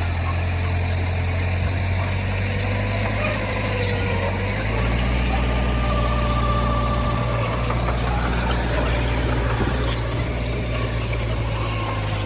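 Diesel engine of heavy earthmoving machinery running steadily, its low hum growing louder and deeper about four and a half seconds in, with a faint wavering whine over it.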